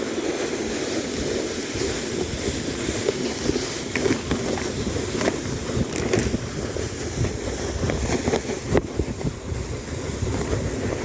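A sled sliding down a snowy slope: a steady scraping hiss of the sled on the snow, with wind rushing over the microphone and scattered knocks as it goes over bumps.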